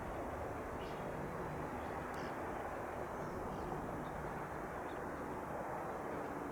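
Steady drone of a Beechcraft V35 Bonanza, a single-engine piston airplane, heard at a distance and holding an even level throughout. A few faint high chirps sound over it.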